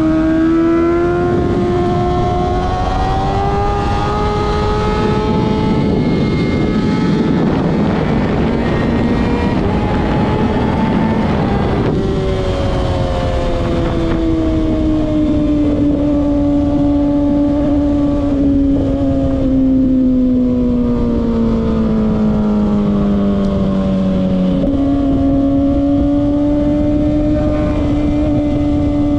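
Kawasaki ZX-6R's inline-four engine running under way: its note rises over the first few seconds, turns rougher and noisier for a while, then falls slowly as the bike slows. Near the end the pitch jumps up suddenly, as on a downshift, and then holds steady.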